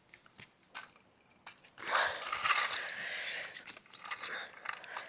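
Ratcheting, clicking clatter of a Lego pull-back toy car and its plastic bricks. A few separate clicks come first, then a dense rattling stretch from about two seconds in that thins out into scattered clicks.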